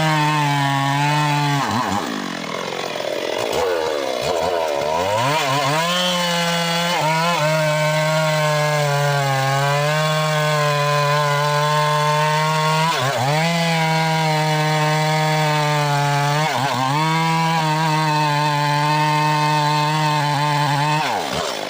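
Engine-driven saw running at high speed while cutting mahogany. Its pitch sags briefly several times as the cut loads the engine, then picks back up.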